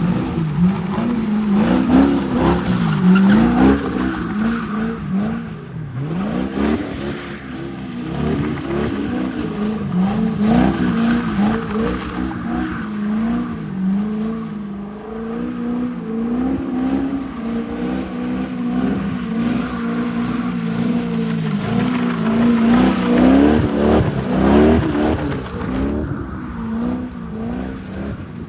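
BMW 323Ci's straight-six engine revving up and down over and over while its tyres squeal and skid, the car sliding on its welded differential.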